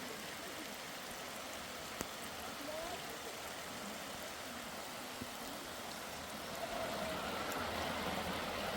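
Steady, even noise of water, like rain or a swollen stream, growing somewhat louder about six and a half seconds in, with a single sharp click about two seconds in.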